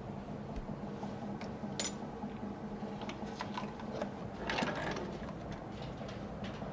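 A workshop machine's motor hums steadily while irregular clicks and knocks of handling sound over it, with a louder scrape about four and a half seconds in.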